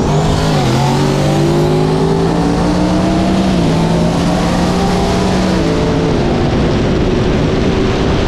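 Heavily modified turbocharged street vehicles accelerating flat out in a roll race, the engine pitch climbing and then dropping at each of several upshifts.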